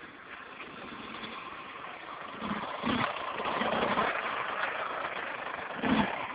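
Dirt bike engine running, getting louder about two seconds in, with a few low thuds.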